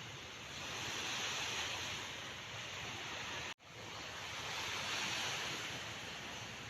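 Sea waves washing in a steady hiss that swells twice, with a split-second dropout to silence about halfway through.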